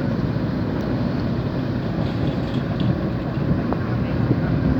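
Truck engine running with a steady low rumble, a few faint clicks over it.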